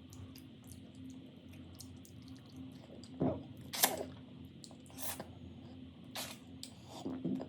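Close-miked eating: wet chewing and mouth clicks, with a few louder smacks about three, four, five and six seconds in.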